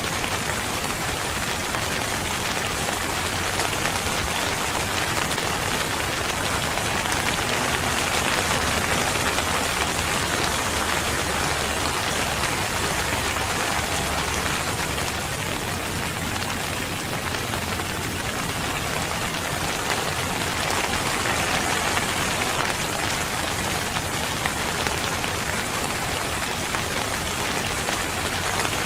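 Steady rain falling on a surface, an even hiss of many drops.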